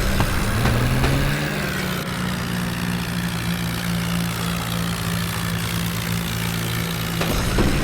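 Swaraj 4x4 tractor's diesel engine running steadily. Its pitch rises a little in the first second or so, then holds even.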